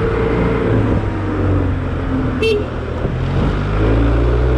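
Honda Silver Wing scooter riding along in dense road traffic, its engine and the surrounding cars running steadily. A short, high toot comes about halfway through, and the low engine sound grows louder near the end.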